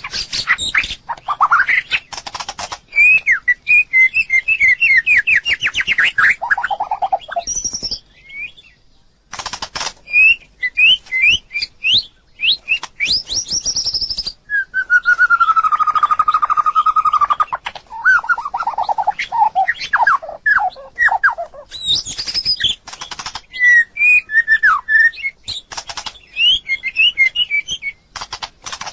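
White-rumped shama singing a varied song: fast runs of short sweeping whistled notes, a long held whistle about halfway through that sinks slightly in pitch, and harsh scratchy notes between the phrases.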